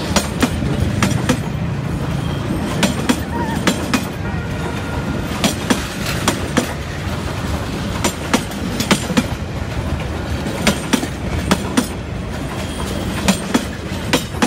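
Vietnam Railways passenger coaches rolling past at close range: a steady low rumble of the train with repeated sharp clacks as the wheels cross the rail joints, often in pairs and clusters.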